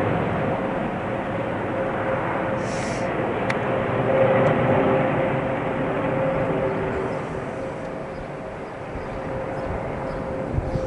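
Jet noise from an Emirates Airbus A380-842, with its four Rolls-Royce Trent 970 turbofans, descending overhead: a steady rumble with a droning hum that peaks about four seconds in and then slowly fades.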